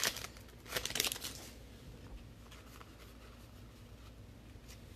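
Football trading cards and a pack wrapper being handled: a few short rustles in the first second and a half, then only a faint low hum.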